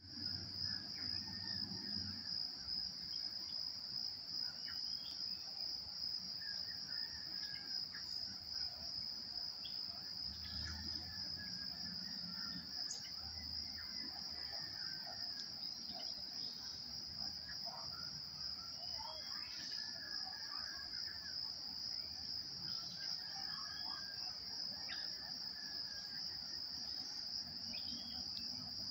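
A steady, high-pitched insect chorus trilling without a break, with scattered faint bird chirps over it.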